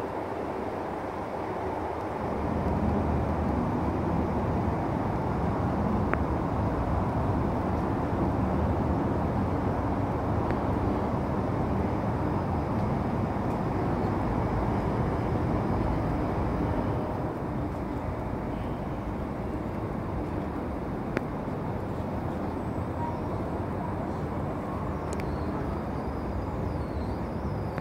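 SBB passenger train coaches rolling slowly past a station platform: a steady rumble of wheels on the rails, louder for the first half and then easing. A few sharp clicks sound along the way, and a faint wavering high squeal comes near the end.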